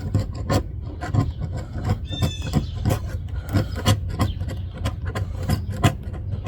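A hand tool scraping old adhesive out of a car's quarter-window opening: irregular scrapes and clicks, with a short squeak about two seconds in.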